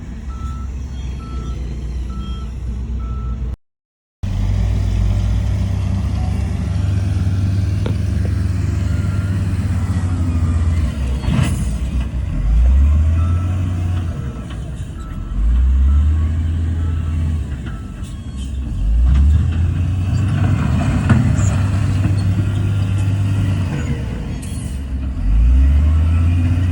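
Heavy diesel earthmoving machinery running, with a reversing alarm beeping at a steady rate during the first few seconds. After a brief dropout the engines rumble on and rev up several times under load.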